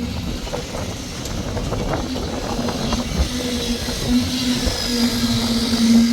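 An engine running with a steady hum, with scattered knocks and scrapes over it.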